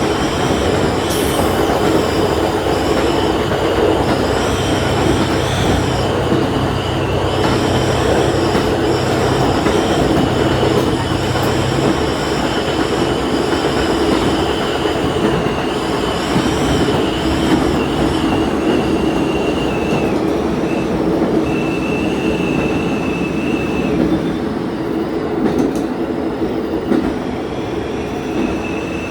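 Diesel railcar running along the line, heard from the front of the train: a steady rumble of wheels on rail with a thin, high wheel squeal throughout. A low engine drone eases off about twelve seconds in.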